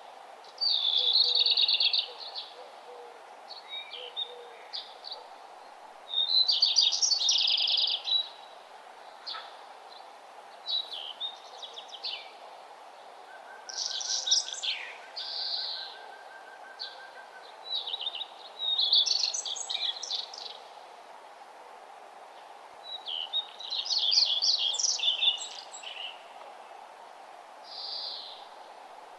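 A songbird singing short, high, trilling phrases, each one to two seconds long and repeated about every five seconds, over a steady background hiss.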